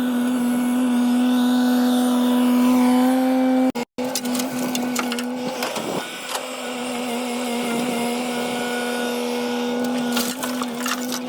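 Tata Hitachi 130 excavator running at a steady pitch, a continuous machine drone with a whine above it. The sound cuts out for a moment about four seconds in, then carries on unchanged.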